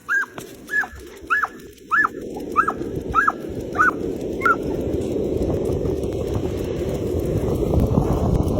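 Excited dog yipping: about nine short, high yips, roughly two a second, over the first four and a half seconds. A rushing wind-on-microphone noise grows steadily louder underneath.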